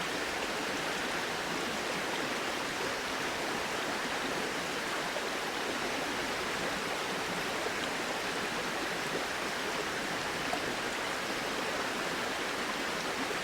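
Flowing river: a steady, even rush of running water.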